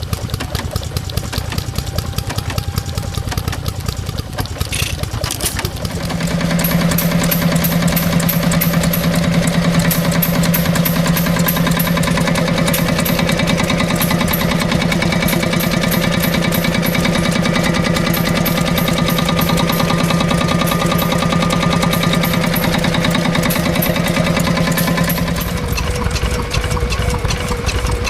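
Stationary engine running with a fast, even beat. About six seconds in, a steady low hum joins it and holds until near the end, then stops.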